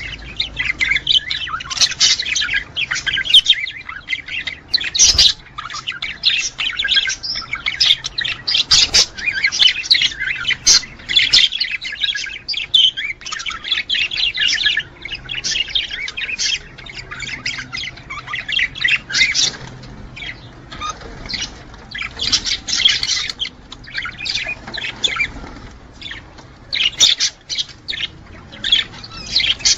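Budgerigars chattering and warbling: a dense, continuous run of quick chirps and squawks that thins out for a few seconds around the middle.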